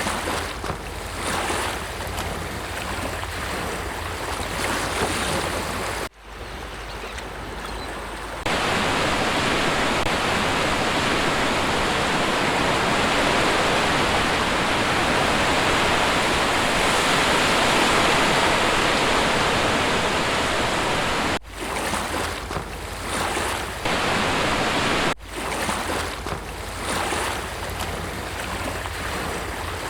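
Sea waves breaking and washing on a shore, a continuous rush of surf. The sound changes abruptly several times as separate recordings are joined, with a louder, steadier rush through the middle stretch.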